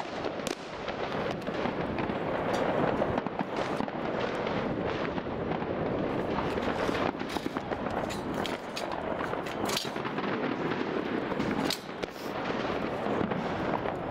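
Fireworks crackling and popping densely and continuously, with louder sharp cracks every second or two.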